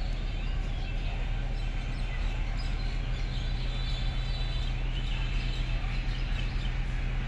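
Birds chirping in short high calls several times through the middle, over a steady outdoor background rumble with a low hum.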